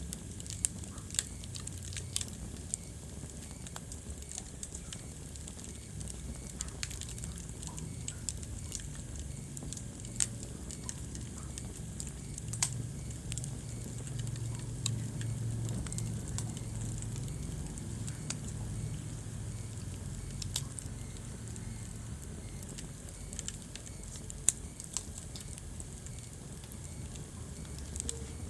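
Wood fire crackling in a fireplace: scattered sharp pops and snaps, a handful of them much louder, over a steady low rumble of burning.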